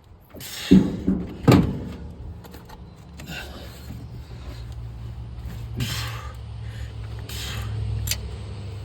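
Two hard metallic knocks, a hammer striking the wrench on a stuck exhaust manifold bolt, about a second apart. Then a steady low hum with a few short bursts of hiss.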